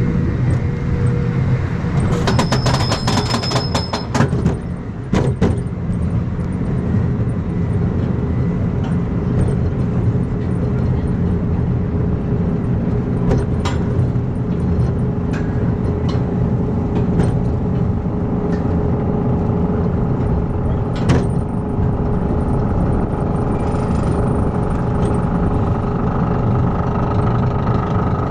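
Wildfire wooden roller coaster train running on its track: a loud, steady rumble with a faint steady whine and scattered clicks, thickest about two to four seconds in.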